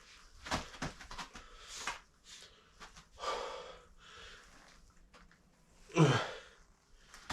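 A man breathing hard with effort while straining at an exercise: sharp exhales and, about six seconds in, a loud short grunt falling in pitch.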